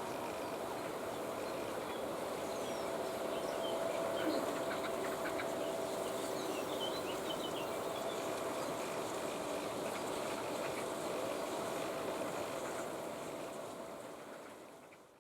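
Steady outdoor background with a faint constant hum, like a distant motor, and scattered faint bird chirps; it fades out near the end.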